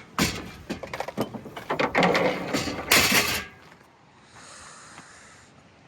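Rapid mechanical clicking and clattering, with a louder rattling burst about three seconds in, then a faint hiss.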